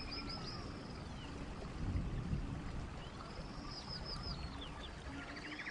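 Birdsong: a bird repeats a short phrase of quick, high, arching notes about every three seconds, with a buzzy trill near the end, over a faint low rumble.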